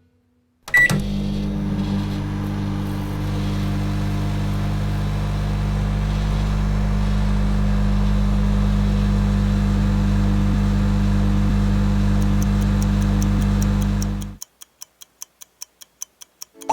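Microwave oven: a short keypad beep, then the oven running with a steady low hum for about thirteen seconds before it shuts off. A quick run of faint, evenly spaced ticks follows near the end.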